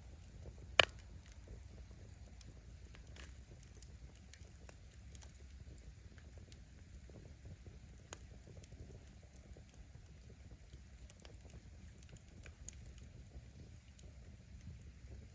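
Wood bonfire burning: a steady low rumble with scattered faint crackles of the firewood, and one loud sharp pop about a second in, with smaller pops later.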